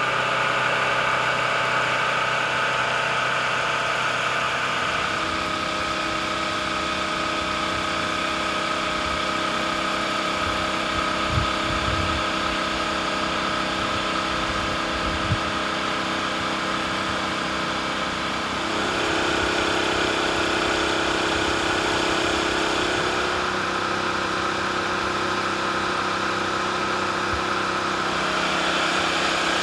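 Engine running steadily with several whining tones. The sound shifts at about five seconds and again at about nineteen seconds.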